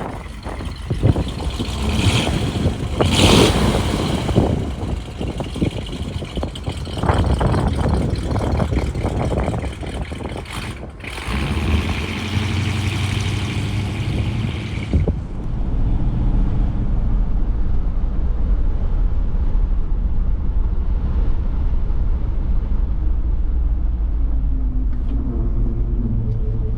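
1957 Ford Thunderbird E-Bird's 312 V8 engine running: uneven and surging with rising and falling revs for the first half, then from about halfway through a steady, low idle rumble.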